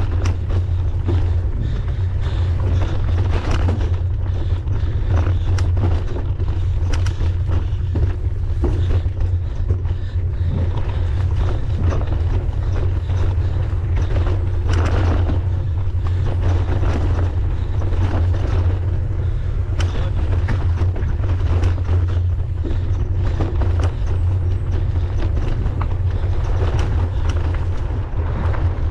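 Mountain bike ridden over a forest trail, heard through an on-board camera: a steady low rumble of wind and motion noise on the microphone, with frequent short rattles and clicks from the bike on the rough ground.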